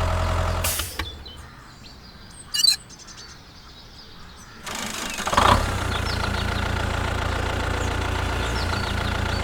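A low, steady engine idle stops about a second in, leaving faint bird chirps. About five seconds in an engine starts up and settles back into a steady low idle.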